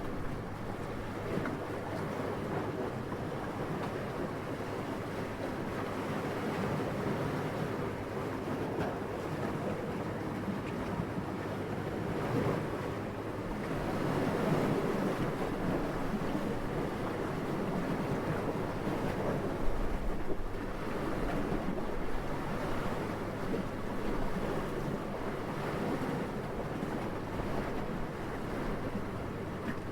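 Gentle, steady wind rushing, swelling in a gust about halfway through and easing off again.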